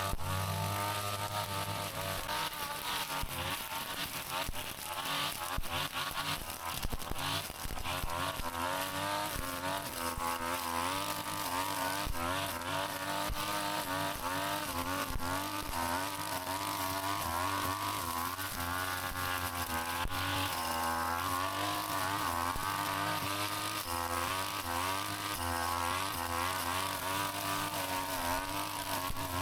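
Brush cutter engine running steadily while cutting grass and weeds, its pitch rising and falling as the load changes, with short ticks from the line or blade striking stems and debris.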